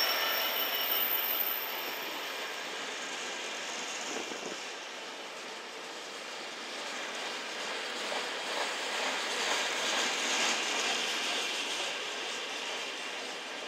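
Freight train's intermodal container wagons rolling past on the rails: a steady rumble of wheels on track, easing a little after the start and growing louder again around ten seconds in.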